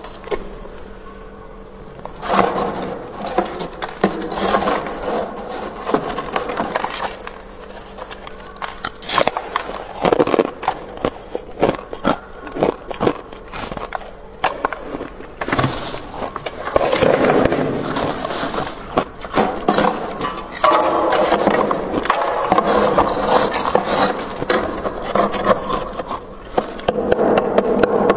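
Freezer frost being scraped and broken: irregular sharp scraping and crackling strokes, turning into longer continuous scraping in the second half.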